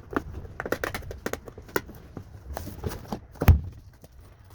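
Cardboard box being handled and picked open: a string of light taps, clicks and scrapes, with one louder thump about three and a half seconds in.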